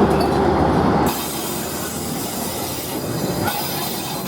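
Train rolling over a railway bridge, its wheels running on the rails with some squeal. About a second in, the heavy low rumble drops away and a quieter, higher hiss of the wheels and cars remains.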